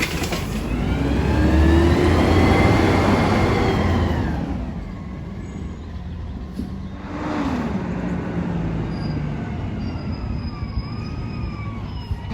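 Garbage truck's diesel engine revving up and falling back over about four seconds, then a second, quieter rise and fall in engine pitch about seven seconds in, over a steady low rumble.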